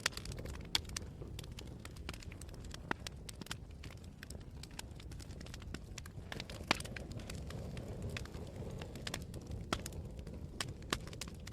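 Wood fire burning with irregular sharp crackles and pops over a steady low rumble, one louder pop a little past halfway.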